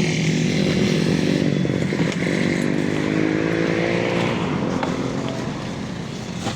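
A motor vehicle's engine running close by, rising in pitch as it accelerates about halfway through, then fading as it moves away.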